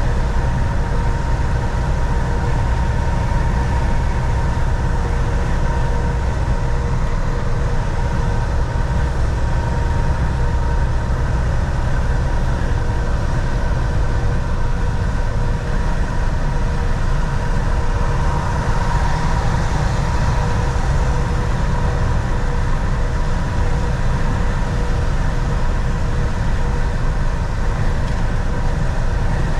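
Volvo VNL 760 semi truck cruising at highway speed, heard from inside the cab: a steady low engine drone and road noise with a faint steady whine. The hiss rises briefly about two-thirds of the way through.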